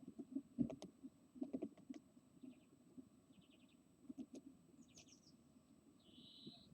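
Faint scratching and tapping of a great tit moving about inside a wooden nest box, with a few short, quick series of high bird call notes.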